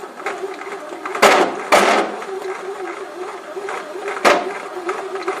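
Moulinex OW502030 bread maker running, its motor humming steadily under irregular loud knocks and clacks, three of them sharp and loud. This knocking is the abnormal noise the machine was returned under warranty for.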